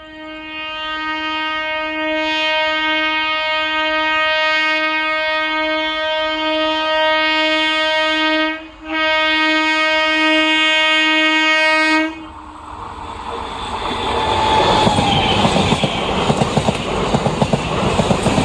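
An Indian Railways train's horn blows one long, steady single note for about eight seconds, breaks off briefly, and blows again for about three seconds more. Then the train comes past, its rumble growing and the wheels clattering rhythmically over the rail joints.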